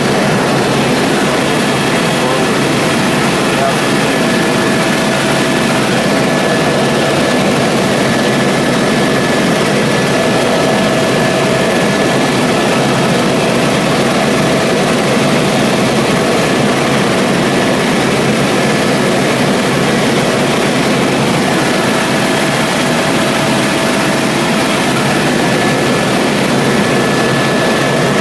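Helicopter in flight, heard from inside the cabin: a loud, steady rush of engine and rotor noise with a few faint steady whines running through it.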